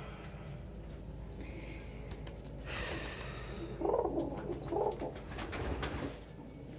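Domestic pigeons cooing in the loft, with short high chirps repeating in the background and a brief flutter of wings about three seconds in.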